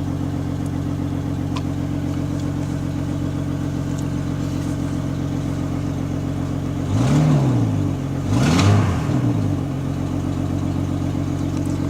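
A Chevy Trailblazer's 4.2-litre Vortec straight-six idling shortly after a cold start, its exhaust loud while cold. About seven seconds in it is revved twice in quick succession, the pitch rising and falling back to idle each time.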